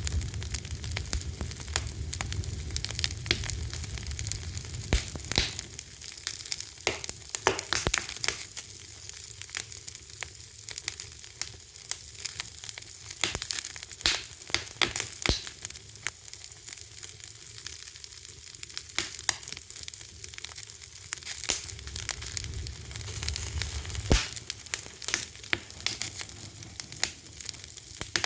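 Fire crackling: a steady hiss with frequent sharp pops and snaps, some louder than others, and a soft low rumble at times.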